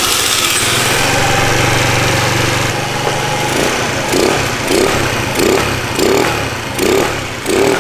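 50cc scooter's 139QMB four-stroke engine running, steady for the first few seconds, then rising and falling in short repeated swells about every 0.7 seconds.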